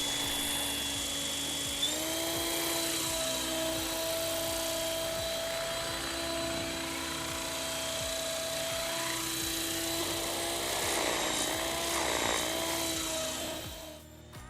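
Esky 900 RC helicopter's rotor and drive whining as it is throttled up. The whine steps up in pitch about two seconds in, holds steady, wavers a few seconds before the end, then stops.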